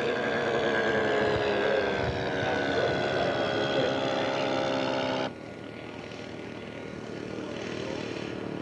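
Radio-controlled scale model airplane's engine and propeller buzzing in flight, its pitch slowly falling as it passes. About five seconds in, the sound cuts off abruptly and gives way to a quieter engine sound that gradually gets louder.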